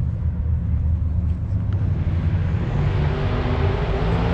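A car engine running, steady at first and getting louder and fuller about three seconds in.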